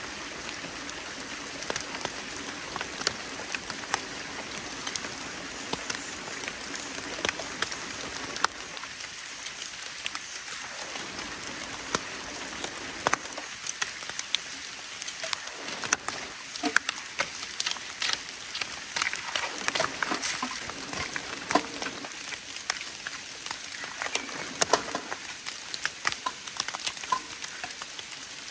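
Rain falling, an even hiss with many scattered sharp ticks of single drops.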